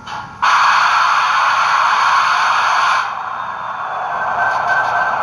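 Model locomotive sound decoder playing through its small onboard speaker: a loud hiss starts suddenly about half a second in and drops off about three seconds in to a steadier, quieter sound carrying a thin whistling tone.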